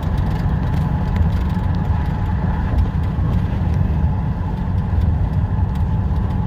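Cab interior of a 2019 Ram 5500 running downhill on its full exhaust brake: the Cummins turbo-diesel gives a steady, deep drone as it holds the truck back on a 6% grade, with a faint steady whine above it.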